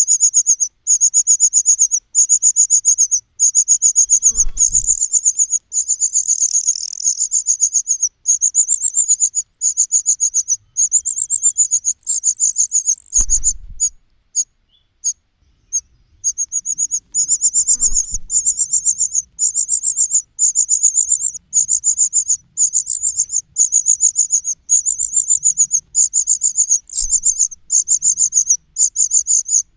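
Nestling birds begging: a very high-pitched chirping in short, rapid bursts, about one and a half a second, with a brief pause partway through. A few dull thumps can be heard.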